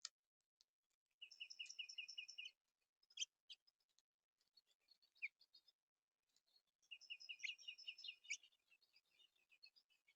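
A small songbird singing a rapid series of repeated high notes, about seven a second, in two phrases a few seconds apart, with scattered chips between them. A sharp click right at the start.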